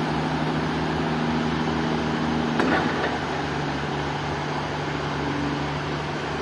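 Sawmill machinery running with a steady hum, a sharp knock about two and a half seconds in.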